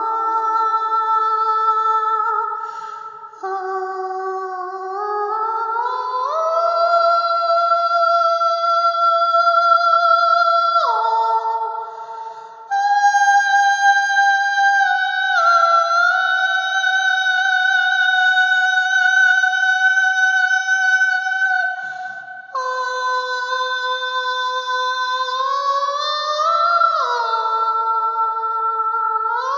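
Layered, sustained wordless vocal tones sung as chords, sliding smoothly from one chord to the next, with short breaks about 3, 12 and 22 seconds in.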